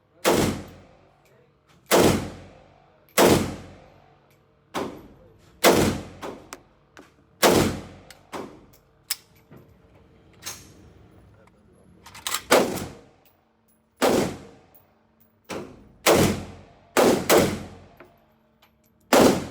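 Gunshots at a shooting range: a string of about eighteen shots fired at an uneven pace, sometimes two in quick succession, each with a short ringing tail.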